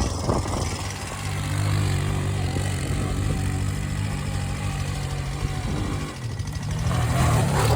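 Quad bike engine running steadily at low revs, dropping away briefly about six seconds in, then picking up again near the end.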